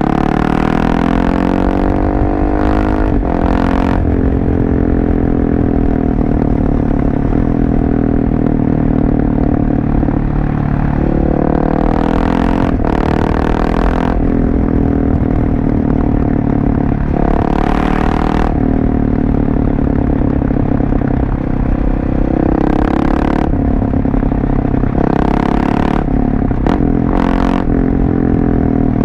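Husqvarna 701 Supermoto's single-cylinder four-stroke engine running through a LeoVince aftermarket exhaust while being ridden, its pitch rising and falling again and again with throttle and gear changes. Several short rushes of hissing noise lie over it.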